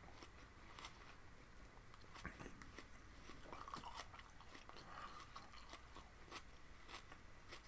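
Faint close-up chewing of raw spinach stalks: irregular small crunches and mouth clicks.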